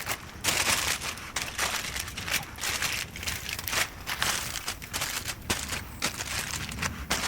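Irregular crinkling and rustling, a rapid, uneven run of crisp noisy crackles that goes on throughout.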